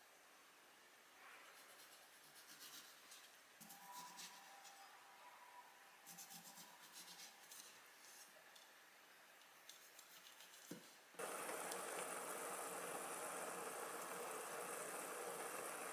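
Faint kitchen handling sounds: light scraping and small clicks. About eleven seconds in, a steady sizzle starts suddenly as food frying in a hot pan.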